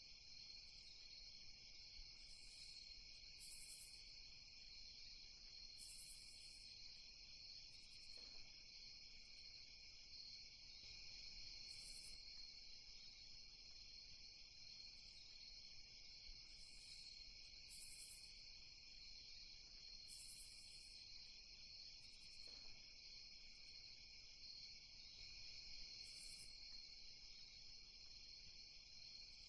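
Faint night ambience of crickets chirping in a steady chorus, with short higher-pitched chirps coming in every few seconds.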